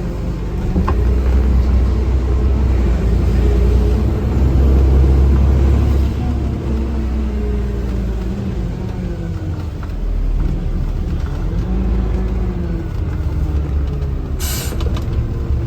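Refuse truck's diesel engine running as it drives, heard from inside the cab, its pitch rising and falling as it speeds up and shifts gears. A short hiss of air about a second before the end, like the truck's air brakes.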